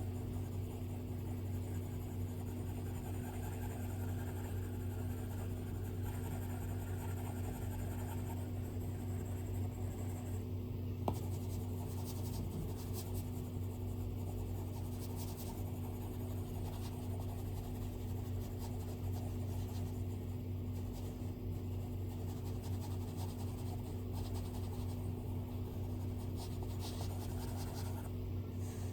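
Stylus scratching across an iPad screen in irregular drawing strokes, with a single sharp tap about 11 seconds in, over a steady low hum.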